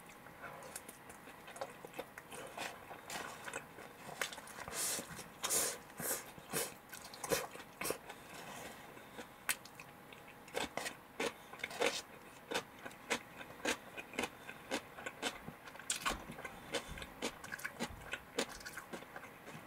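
A person chewing a mouthful of karaage (Japanese fried chicken) with shredded cabbage: a run of short, irregular crunches and mouth clicks, several a second, some louder than others.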